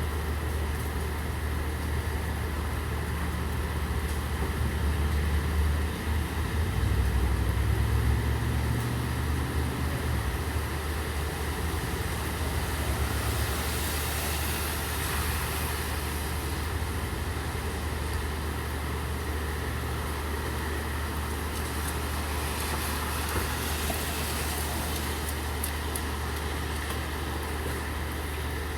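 Steady rain hiss with a vehicle engine running as a low hum underneath, the engine swelling louder about six seconds in and settling back a few seconds later.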